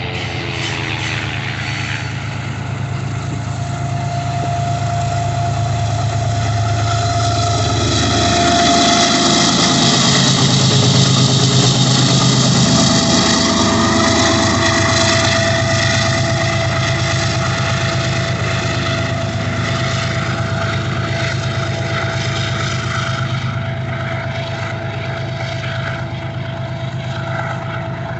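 Diesel locomotive engine running as a train moves through the yard, growing louder to a peak about ten seconds in and then easing off, with a steady high squeal over it.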